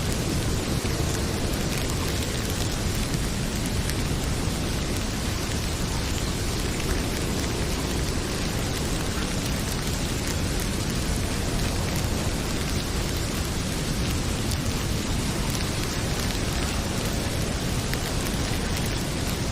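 Heavy rain pouring steadily with a low rumble, and a wood fire crackling now and then.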